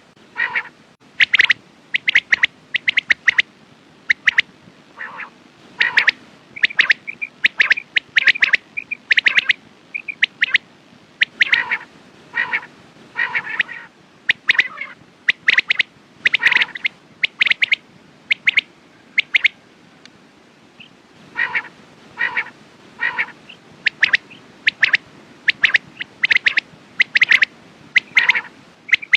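Quail calling: short, sharp notes repeated in quick runs, with a break of about two seconds roughly two-thirds of the way through.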